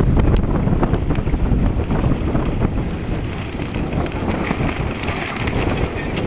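Wind buffeting the microphone: a loud, steady rushing noise with scattered crackles.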